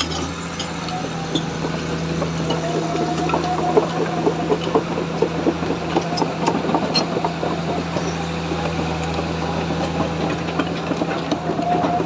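Excavator diesel engine running steadily, with a rapid series of short knocks and rattles from about three to five seconds in.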